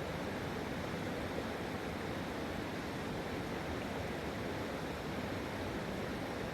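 Steady rushing of a flooded river's water.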